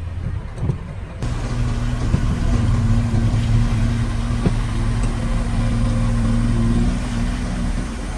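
Diesel engine of a heavy construction machine running steadily under load. It changes abruptly and grows louder about a second in, then eases a little near the end.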